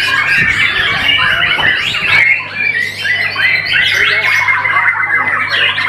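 White-rumped shama (murai batu) singing a fast, varied run of notes, with a long even trill from about three and a half seconds in.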